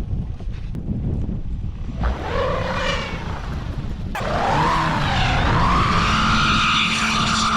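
Car engine revving while its wheels spin in deep snow, the pitch rising and falling from about two seconds in, then climbing to a steadier high whine: the car is stuck and trying to drive out. Wind rumbles on the microphone before the revving starts.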